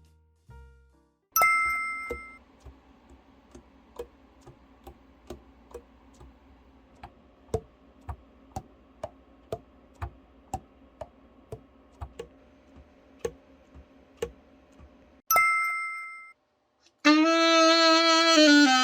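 A bright bell-like ding, then a faint hum with sharp clicks about twice a second, and a second ding. Near the end, a Selmer Super Action 80 alto saxophone starts playing, holding a note and then stepping down in pitch.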